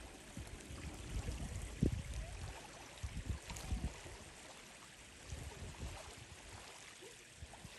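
Water lapping and splashing, with a few irregular low thumps, the loudest about two seconds in.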